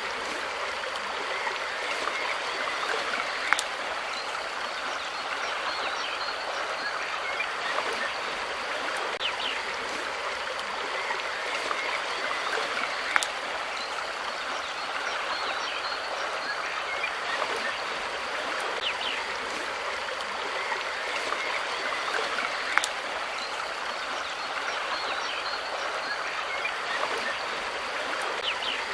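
Steady rush of flowing water, with short faint chirps scattered through it and a few sharp clicks.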